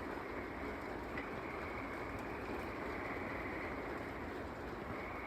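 Rain coming down steadily in a thunderstorm, a dense, even hiss with no let-up.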